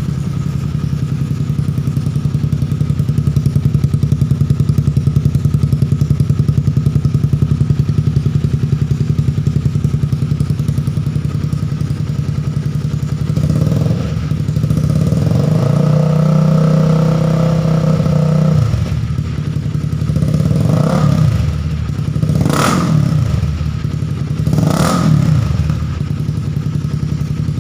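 Honda CB150R's single-cylinder four-stroke engine idling through a gutted ASR aftermarket exhaust with its baffle removed, giving a loud, steady exhaust note. About halfway through it is revved once, briefly and gently, and near the end it is blipped three times.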